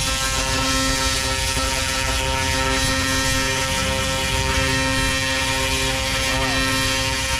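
Fiber laser cleaner firing on metal, stripping paint and rust down to bare metal: a steady buzzing drone with a hiss over it.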